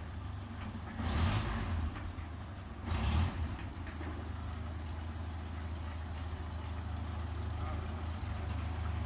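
A vehicle engine running steadily at low revs, with two short hissing bursts about a second and three seconds in.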